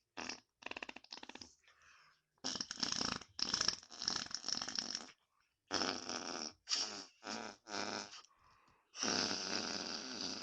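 Imitation fart noises: a series of buzzy, sputtering blasts, some short and some drawn out for a second or more, with short gaps between them.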